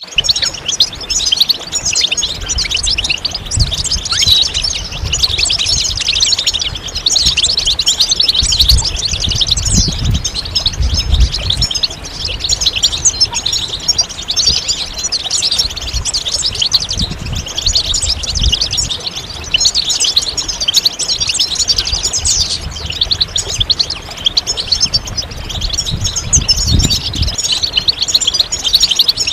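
European goldfinch singing a continuous, fast twittering song of rapid chirps and trills without a break, with irregular low thuds underneath. This is the kind of song played to captive goldfinches to stimulate them to sing.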